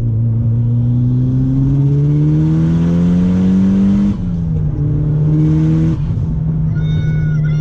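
Mitsubishi Lancer Evolution's turbocharged four-cylinder engine accelerating in gear, its pitch rising for about four seconds. It then drops suddenly at an upshift and runs on at a steady pitch.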